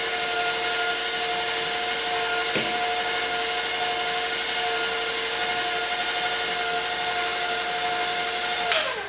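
Electric kitchen mixer running at a steady speed with a steady whine, mixing flour and cocoa powder into cookie dough. It is switched off near the end, and its whine falls as it spins down.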